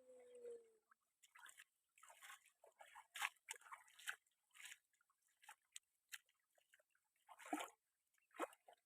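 Faint, irregular crunching and scraping noises in short bursts, after a steady hum that stops just under a second in.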